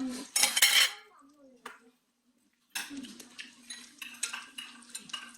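Tableware clinking and clattering at a restaurant table. There is a loud clatter about half a second in and a short gap of near silence around two seconds, then lighter scattered clinks over a steady low hum.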